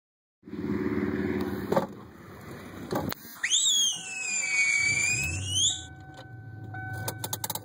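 Ford Mustang GT 5.0 V8 heard from inside the cabin: a pitched running sound at first, a couple of clicks, then a high whine for about two seconds that swoops up, dips and rises again, like the starter cranking. After that the engine settles into a low, steady idle.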